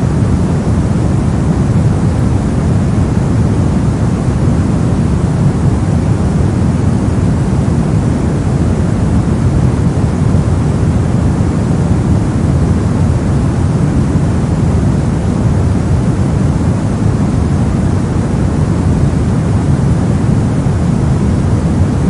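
Brown noise: a steady, unchanging low rumbling hiss, strongest in the low end and much softer in the highs.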